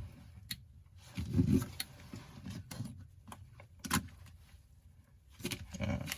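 Scattered small clicks, taps and scraping as an iPhone 8's glued screen is pried loose with a plastic card and tools, with a few soft thuds from handling the phone.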